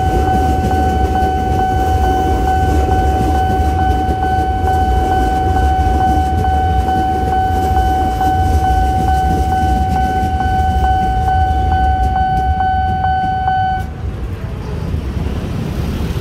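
Electric commuter train running past with a steady rumble, its wheels clicking regularly over rail joints in the last seconds. Over it a level-crossing warning alarm sounds one unbroken tone, which cuts off suddenly about fourteen seconds in as the train clears, leaving road traffic noise.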